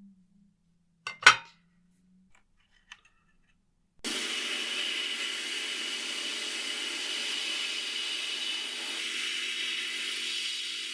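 A sharp knock and a few faint clicks, then about four seconds in a small machine starts and runs steadily with a hissing noise.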